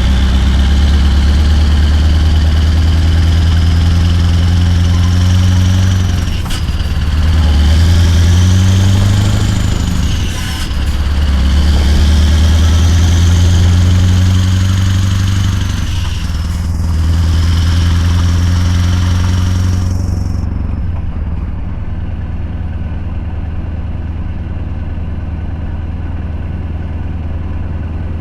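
Scania R580's 16-litre V8 diesel with a straight-piped exhaust running loud and deep. Its level dips briefly three times, then after about twenty seconds it settles to a quieter, steady running.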